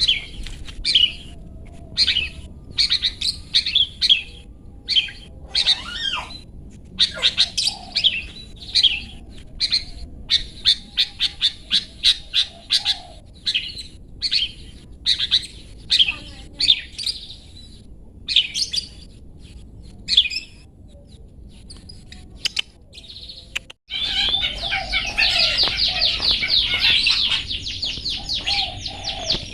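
Long-tailed shrike (cendet) calling in short, sharp, repeated notes with gaps between them, including a quick run of notes partway through. After a brief break late on, it breaks into a dense, unbroken chatter.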